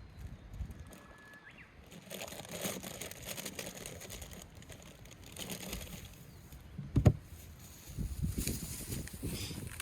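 Hands handling camp cooking gear: rustling and small clicks, then one sharp knock about seven seconds in, followed by a run of soft thuds.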